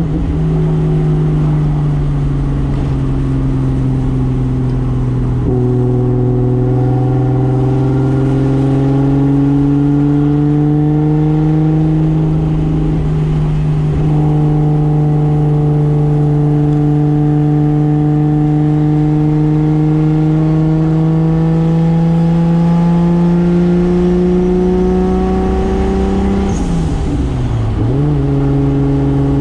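Single-turbo 2JZ straight-six in a 1995 Toyota Soarer pulling through the gears, its pitch climbing steadily and dropping back at gear changes about five and fourteen seconds in. Near the end the revs fall sharply and come back up.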